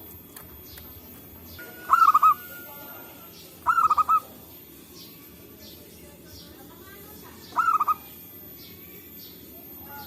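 Zebra dove (perkutut) cooing: three short phrases of quick, rolling coo notes, about two, four and nearly eight seconds in.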